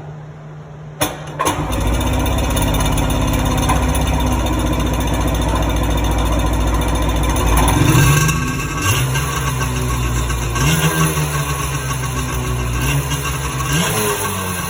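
1998 Sea-Doo GTS's two-cylinder Rotax two-stroke engine cold-started after two years of sitting: a click about a second in, then the engine catches at once and runs steadily. About eight seconds in it revs up briefly, then keeps running with the revs rising and falling a little as the throttle is blipped.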